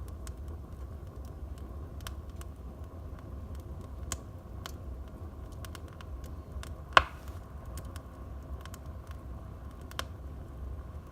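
Wood fire burning in a fireplace, crackling with scattered small pops over a low steady rumble, and one loud sharp pop about seven seconds in.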